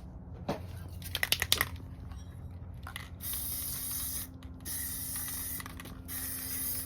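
Aerosol spray paint can: a brief rattle about a second in, then sprayed in several long hissing bursts with short pauses between them from about three seconds in.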